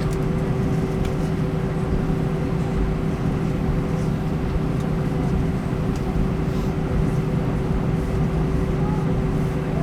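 Airbus A320 cabin noise while taxiing: a steady engine hum and rumble with a constant mid-pitched drone.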